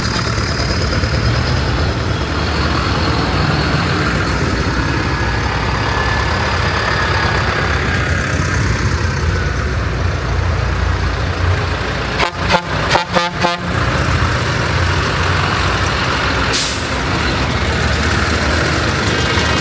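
Diesel tractor engines running steadily as the parade goes by. About twelve seconds in there is a quick run of six or seven sharp pulses, and a few seconds later a short sharp hiss.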